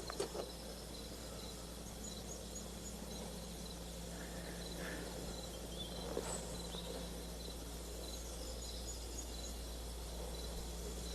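Quiet ambience: a steady low hum with faint, evenly repeated high insect chirping, like crickets, and a few soft knocks.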